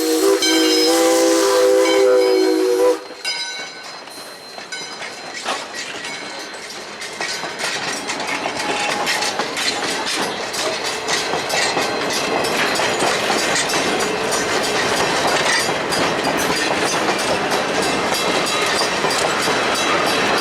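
Steam locomotive whistle blowing a long blast of several tones together, cutting off about three seconds in. Then the train approaches and passes, growing louder, its wheels clicking rhythmically over the rail joints.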